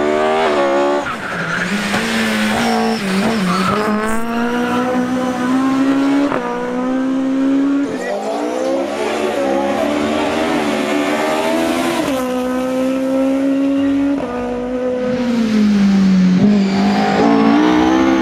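Ford Fiesta rally car's engine at high revs, rising in pitch and dropping sharply again and again as it shifts through the gears under hard acceleration.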